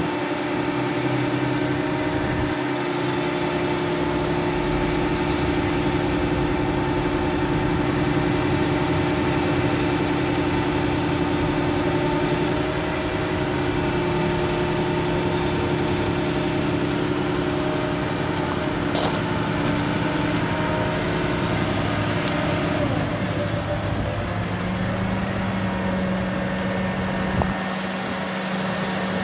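Bucket truck's engine running steadily with a constant hum. About 23 seconds in, the hum shifts down to a lower steady pitch as the engine speed changes. There is one sharp click a few seconds before the shift.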